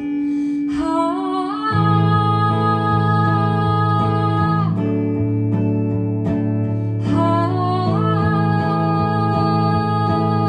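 Live song: acoustic guitar strumming steadily under two long wordless sung notes, each sliding up into pitch and held about four seconds.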